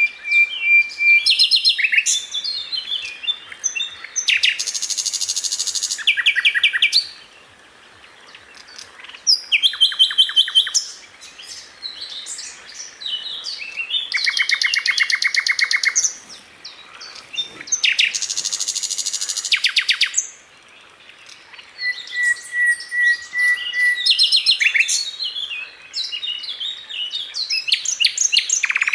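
Sikatan londo flycatcher singing: phrases of very rapid trills, each a second or two long, alternating with quick varied chirps and a few level whistles, with short pauses between phrases.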